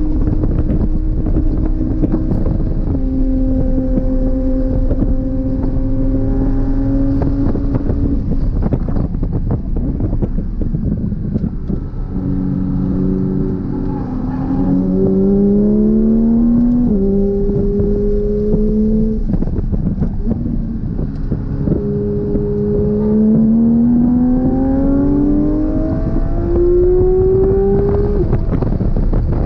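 Porsche 992 GT3 RS's 4.0-litre naturally aspirated flat-six at speed, its note climbing under power and dropping sharply at gear changes several times. There is heavy wind and road noise underneath, and around ten seconds in the engine tone fades into that noise.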